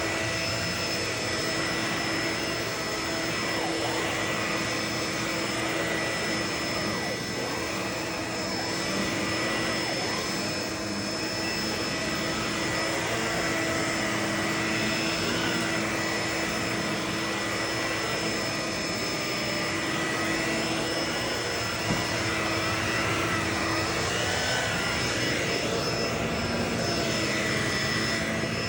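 Vacuum cleaner running steadily, its motor whining on a few fixed pitches over the rush of air, with the airflow pitch wavering as the nozzle moves. One short sharp click about three-quarters of the way through.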